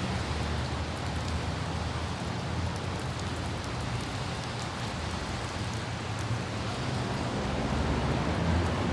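Light rain falling steadily, with scattered droplet ticks, over the low rumble of a car driving on a wet city road.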